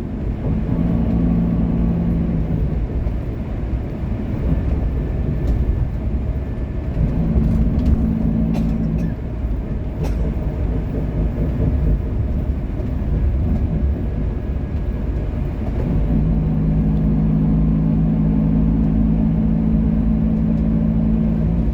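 Bus engine running: a steady low rumble with a humming note that fades out and comes back several times.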